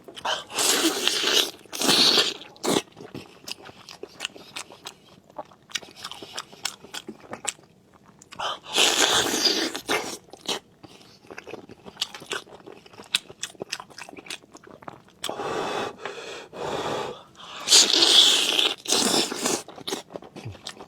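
Close-miked chewing and biting of food, with many short wet clicks and smacks, and four louder, longer noisy bursts: one near the start, one a little before the middle, and two near the end.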